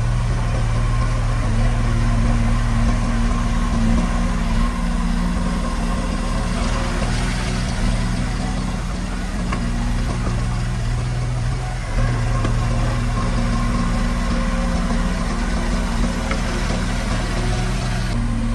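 Diesel engine of heavy earthmoving machinery running steadily, its note shifting a few times.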